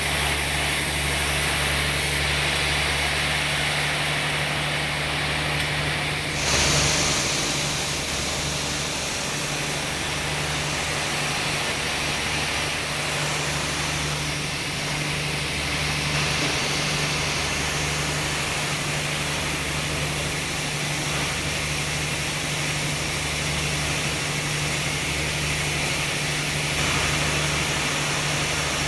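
Sawmill machinery running steadily with a low engine hum, with a brief louder burst about six seconds in.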